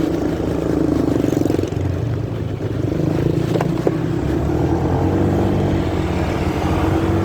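Motorcycle running while being ridden, picked up by a phone in the rider's pocket: a steady engine note under rumbling road and wind noise, with two short clicks a little after three and a half seconds in.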